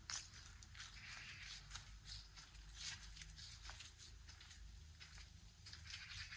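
Faint footsteps of a person walking, a handful of irregular soft scuffs and clicks over a low steady rumble.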